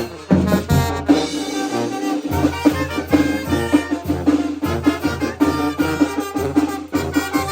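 Brass band playing a chilena, the horns carrying the melody over a steady, evenly repeating bass beat.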